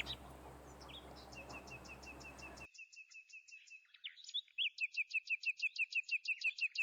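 A bird chirping in a fast, even series of short high notes, faint at first and louder from about four seconds in.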